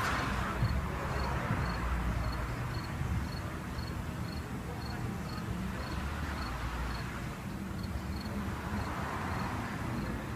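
Outdoor background: a steady low rumble like distant traffic that swells and fades, with a faint high chirp repeating evenly about three times a second.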